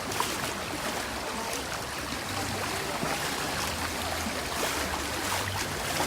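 Steady rushing, splashing water, as from water park slides, pools or fountains.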